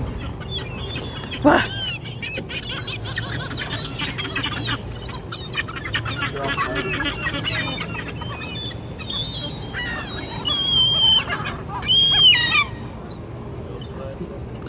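A flock of gulls calling over one another, many overlapping harsh squawks and cries. The loudest calls come about a second and a half in and again near the end.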